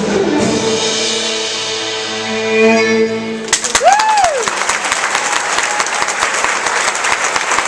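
Chamber orchestra with solo violin holding the final chord of a piece, cutting off about three and a half seconds in. Audience applause then breaks out, with one rising-and-falling cheer near its start.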